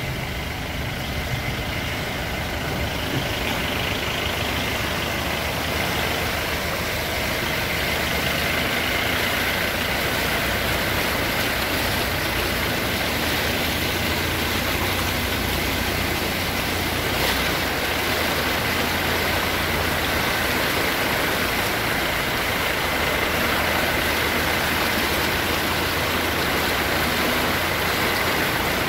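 A vehicle's engine running steadily under a constant rushing noise, with a faint steady high whine, heard from inside the vehicle as it drives through floodwater.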